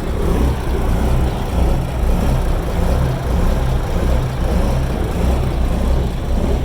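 Several Cummins KTA-19 1150-cubic-inch inline-six diesel engines idling together in old Kenworth trucks, a deep idle that swells and sags unevenly a few times a second: the lope these engines are known for at idle.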